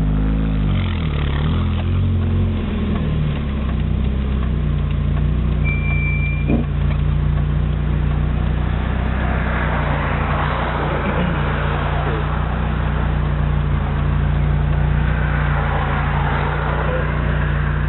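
Nitrous-equipped Mazda Miata's four-cylinder engine, heard from inside the cabin, revved a few times in the first seconds and then idling steadily.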